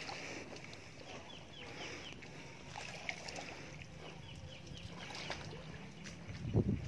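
A bird calling in quick runs of short falling notes, about five in a row a little after a second in and a few more later, over a low steady rumble. A dull thump sounds near the end.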